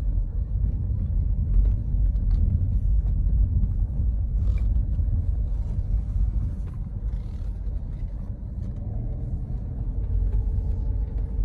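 Steady low rumble of a vehicle travelling along a rough dirt road, with a few faint knocks and rattles.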